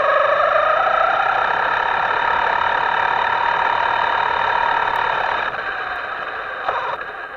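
Electric motor of a Himoto radio-controlled boat whining under throttle, over a steady hiss. Its pitch climbs at the start, holds steady, then drops away about five and a half seconds in as the throttle eases.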